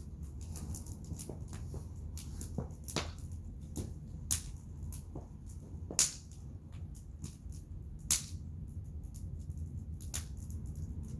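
Wood bonfire crackling: irregular sharp pops over a steady low rush, with two louder pops about six and eight seconds in.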